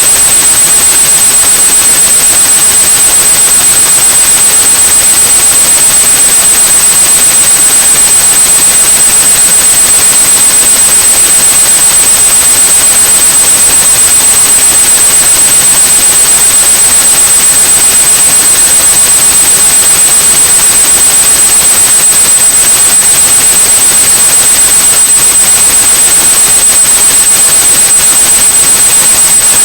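Loud, steady white noise hiss with a pure high-pitched tone at 8,100 Hz held unchanging over it: a synthetic tinnitus-masking signal.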